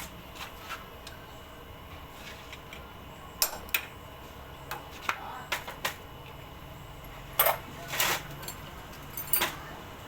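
Metal tools and small engine parts clinking and tapping, a scatter of separate sharp clicks at irregular intervals, the loudest about a third and three quarters of the way through.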